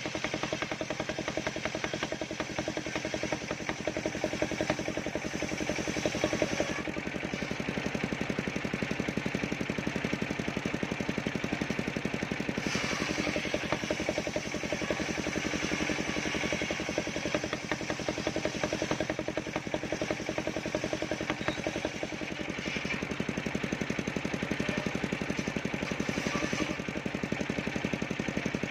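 Engine-driven portable circular saw running steadily while splitting sengon wood, the higher noise of the blade in the wood swelling at times, notably from about a third of the way in to past the middle.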